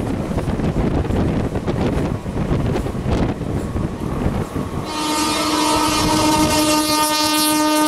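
A train running past with rumbling and wind noise, then a locomotive horn sounding about five seconds in. The horn is held as one long steady blast and starts to drop in pitch at the very end as the locomotive passes.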